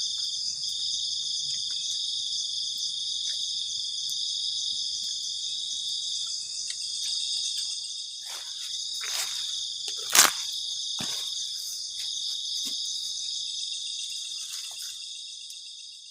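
Night chorus of crickets, a steady high-pitched trilling, with a few faint clicks and one sharp, loud crack about ten seconds in. The chorus fades away near the end.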